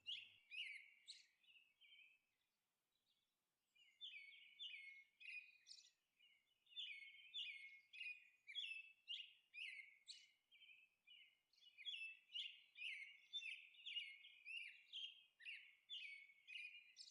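Faint birds chirping: quick runs of short, repeated chirps, with a pause of a few seconds near the start.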